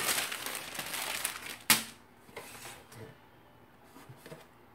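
Crinkling, rustling handling noise, then a single sharp click just under two seconds in, followed by a few faint light knocks as the clamped-up wooden door is handled.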